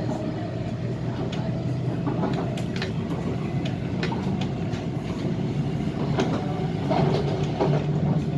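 Inside an MTR Tung Chung Line A-Train electric multiple unit running at speed: a steady low running hum with a medium-paced clickety-clack of the wheels over rail joints. The sound grows louder near the end.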